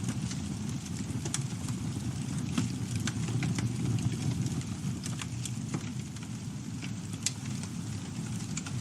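Campfire burning: a steady low rush of flames with scattered crackles and pops, one sharper pop about seven seconds in.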